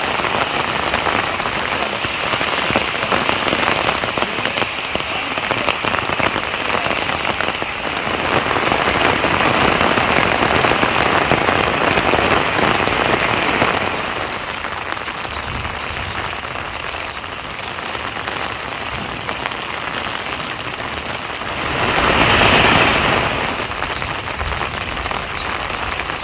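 Rain falling steadily. It eases slightly about halfway through and swells briefly for about a second near the end.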